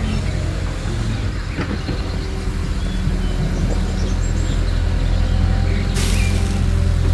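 Steady low motor hum, with a short burst of hiss about six seconds in.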